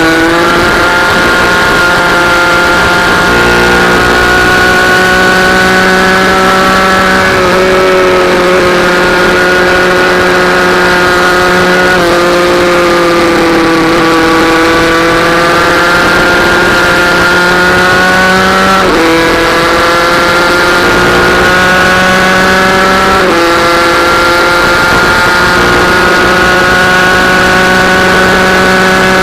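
Small racing minibike engine running hard at high revs, its pitch sagging and climbing with the throttle and stepping abruptly several times, as with gear changes.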